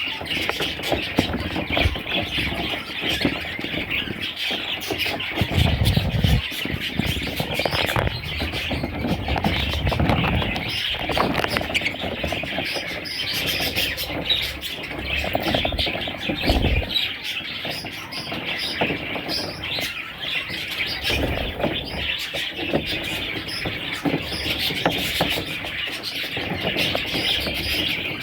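Baby budgerigars chirping and squealing in a continuous, busy chatter of many short calls.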